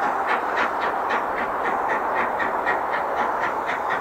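Train running, with a rapid even rhythm of about four beats a second over a steady rushing noise.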